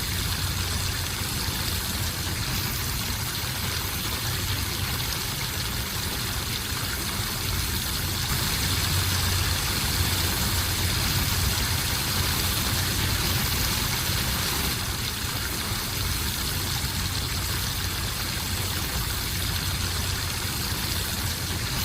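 Steady ambient noise: an even low rumble with a broad hiss over it, unchanging throughout.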